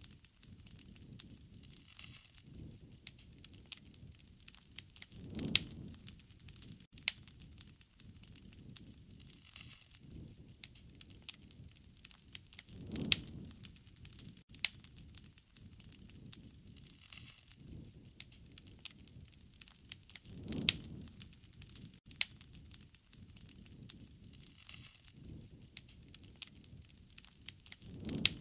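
Wood fire crackling, with frequent sharp pops and snaps and a soft, low rush that swells about every seven to eight seconds.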